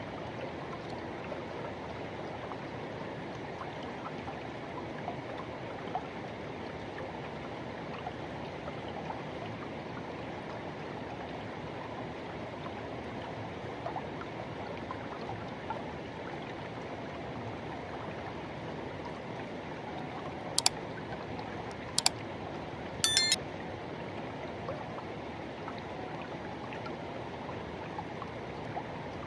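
Forest river water rushing and flowing steadily over rocks. A few sharp clicks about two-thirds of the way through are the loudest sounds.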